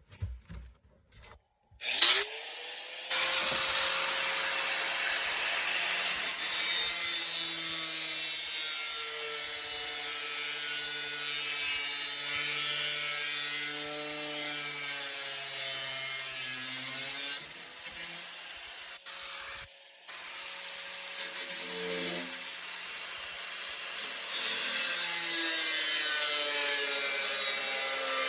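A power tool cutting sheet steel, starting about two seconds in. It makes a loud, steady hiss while the metal rings in shifting tones, with two short let-ups in the second half.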